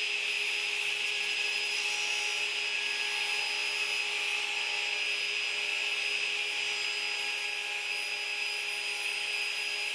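Radial arm saw set up for ripping, its motor and blade running with a steady whine that holds one pitch without change.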